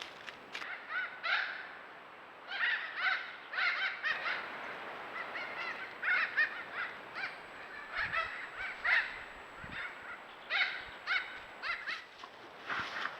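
Birds calling: many short, arched calls in quick clusters, over and over.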